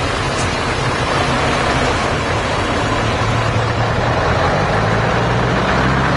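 Tractor engines running steadily, a low rumble under a constant noisy hiss.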